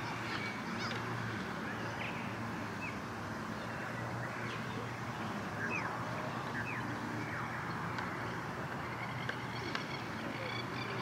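Open-air background with a steady low hum, and a few short, rising bird chirps scattered through it.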